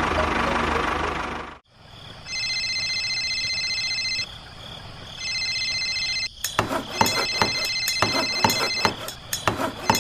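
A steady motor-like noise stops after about a second and a half. An electronic ringing tone then sounds twice in short spells, and comes back near the end over a quick run of clicks and knocks.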